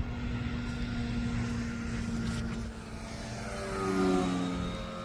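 Large 12-foot radio-controlled model airplane in flight, its propeller giving a steady drone. About three and a half seconds in, the drone grows louder and drops in pitch as the plane passes by.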